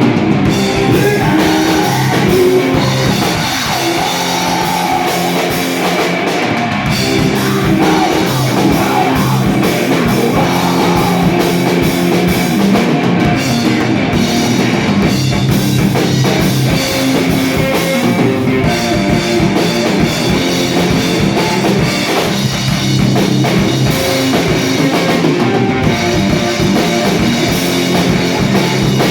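Rock band playing live: drum kit and guitars in a loud, dense, continuous instrumental passage.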